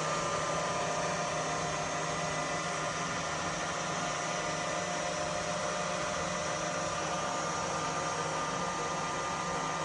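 Sharp LMV 50 vertical milling machine running steadily, its spindle turning in the variable-speed belt-drive head: an even whirring hum with several constant tones and no change in speed.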